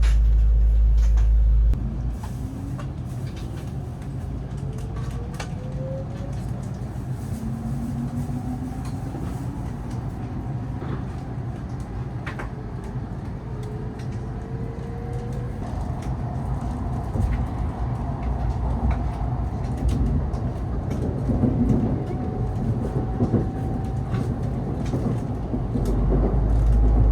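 Nishi-Kyushu Shinkansen Kamome (N700S) heard from inside the passenger car: a steady low running rumble with a rising electric motor whine as the train gathers speed. The rumble grows louder near the end.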